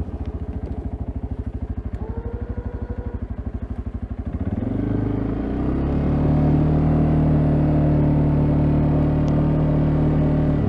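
CFMoto CForce ATV's single-cylinder engine idling with a rapid even putter, with a brief whine about two seconds in; about five seconds in it revs up and runs steadily at higher speed as the ATV pushes its snowplow.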